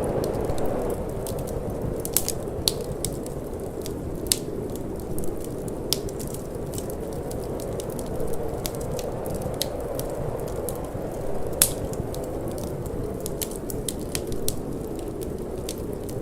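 Wood fire crackling with frequent sharp pops, one standing out a little past the middle, over a steady rush of wind.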